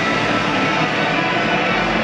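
A pack of auto race motorcycles' 600 cc twin-cylinder engines running flat out together, a dense steady buzz.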